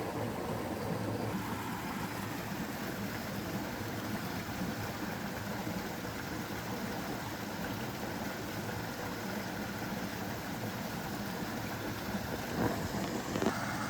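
Steady rush of running water from a mountain valley stream, with a couple of small knocks near the end.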